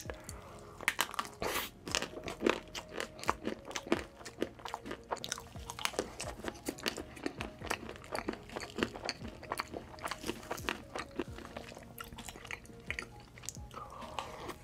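Mukbang eating sounds close to the microphone: a person chewing mouthfuls of cake, a quick, irregular run of mouth clicks and crunches, with soft background music underneath.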